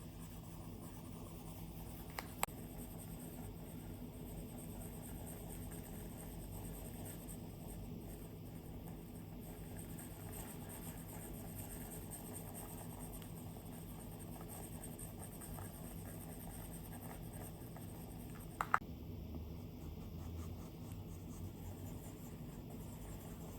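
Stylus drawing on an iPad screen: faint, steady scratching strokes. There are two quick taps of the tip about two seconds in and another pair of sharper taps about nineteen seconds in.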